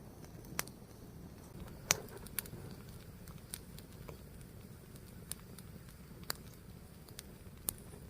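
A burning fire crackling: scattered sharp pops, about one a second and irregular, the loudest about two seconds in, over a low steady rumble.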